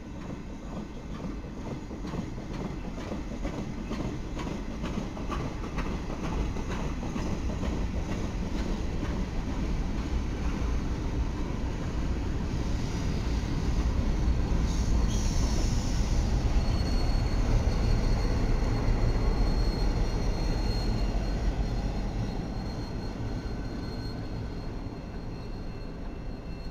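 A train rolling past on the rails: a steady rumble with wheels clicking over the track, growing louder to a peak in the middle and then easing off. A thin, high wheel squeal comes in during the second half and holds.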